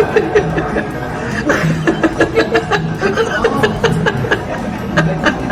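Laughter in quick repeated bursts.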